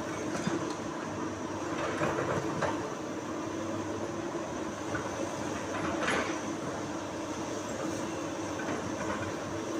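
Komatsu PC200 hydraulic excavator's diesel engine running steadily, with a few short clanks or scrapes, about two seconds in and again about six seconds in.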